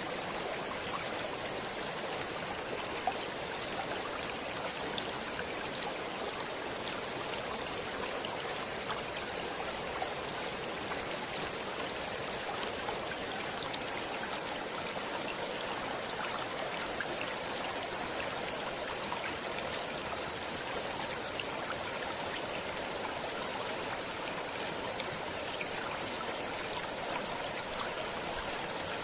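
A stream running steadily over rocks, a constant rush with fine splashing and trickling.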